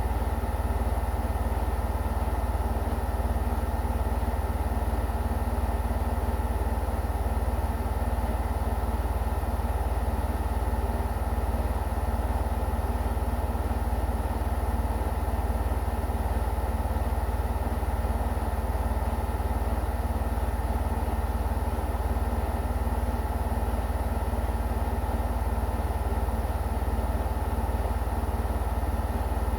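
Washing machine running through its wash cycle: a steady, unchanging low hum and mechanical drone.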